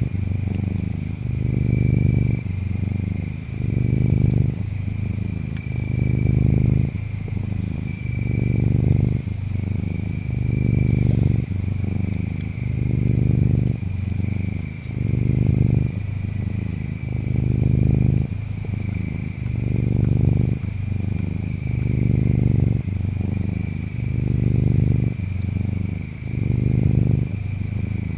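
A domestic cat purring steadily in slow, even cycles of about two seconds, each breath in and out swelling and fading. Over it, insects chirp: a steady pulsing high chirp, and clusters of very high trills every few seconds.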